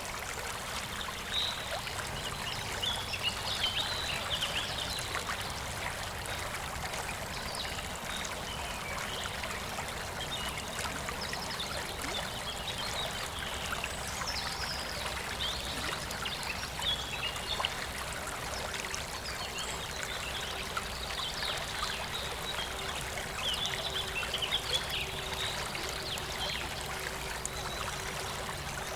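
Shallow, clear stream flowing and gurgling steadily, with a light trickling and splashing of water over stones.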